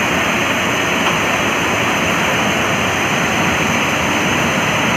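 Automatic car wash machine running, a steady, loud rushing noise.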